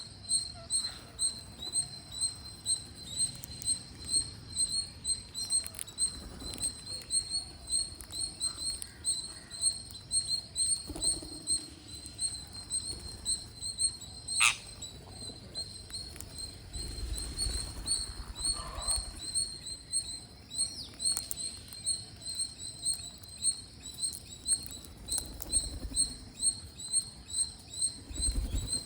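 A bird chirping over and over at a steady pace, about two to three short high chirps a second. About halfway through comes one sharp, louder call that falls in pitch.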